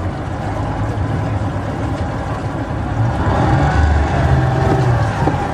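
Speedboat engine running steadily while the boat is underway, getting a little louder in the second half.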